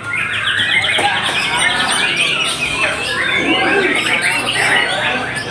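Several white-rumped shamas singing at once in dense, overlapping song: quick varied phrases and a fast repeated trill in the first two seconds.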